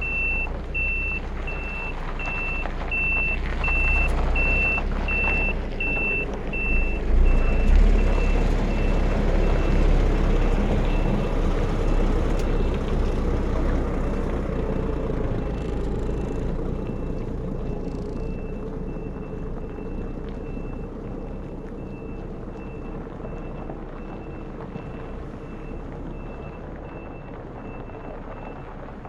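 Truck's reversing alarm beeping steadily, about one and a half beeps a second, over the low rumble of the truck's engine. The engine swells about eight seconds in, then the beeping and engine slowly fade.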